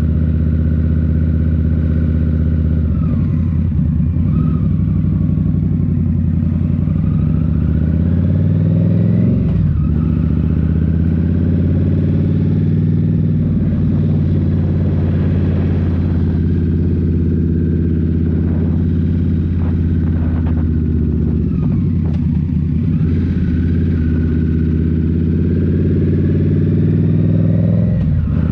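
Indian Scout Rogue's liquid-cooled 69 cu-in V-twin running under way through Rinehart slip-on exhausts. Its pitch dips and climbs again several times with changes of throttle.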